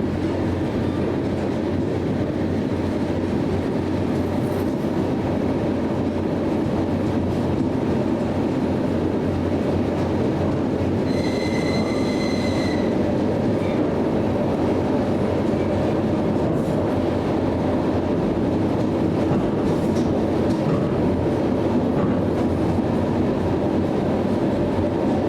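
Train rolling on the rails with a steady low rumble and wheel clatter; a brief high squeal rings out for about a second and a half near the middle.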